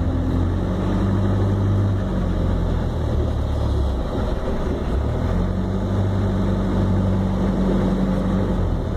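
Vehicle engine running steadily at low speed, a low hum that dips briefly about four seconds in and then comes back.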